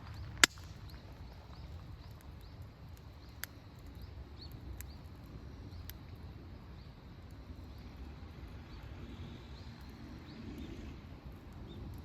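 Wood fire crackling in a campfire stand: one loud sharp pop about half a second in, then a few fainter pops over a low steady rumble.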